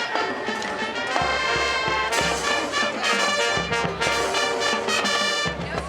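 High school marching band playing loud, full brass chords in long held notes over low bass and drums, with short breaks between phrases.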